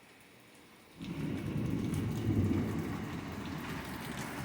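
Torrential thunderstorm rain that comes in loud and all at once about a second in, with a low rumble of thunder mixed into the downpour.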